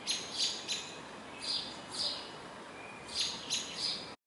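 A bird chirping in short, high, falling notes, in groups of two or three, over a steady outdoor hiss. The sound cuts off abruptly near the end.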